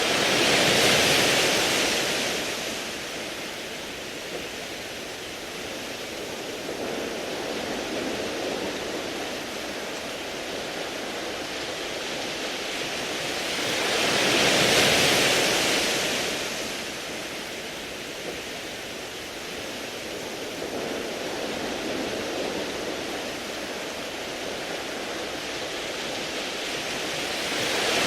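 Waves washing over a round-pebble beach. A swell of surf rises and falls about every fourteen seconds, about a second in, around the middle and again at the end, with a steady hiss between.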